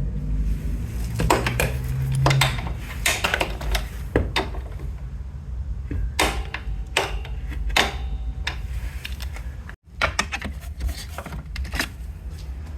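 Metal tools and small engine parts clinking and knocking, an irregular run of sharp clicks over a steady low rumble.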